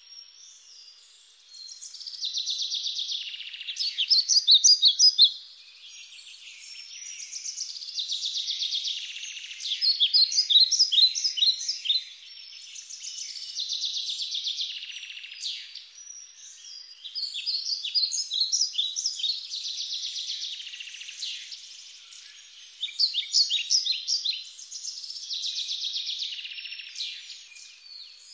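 Birdsong: one phrase repeated about every six seconds, a buzzy trill followed by a quick run of chirps.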